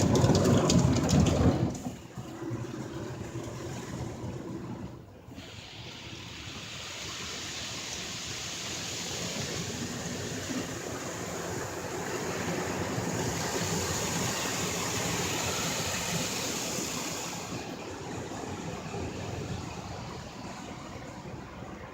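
Automatic car wash spray jets hitting the car, heard from inside the cabin: a steady hiss that swells to its loudest in the middle and eases near the end. It opens with a loud low rumble that cuts off about two seconds in.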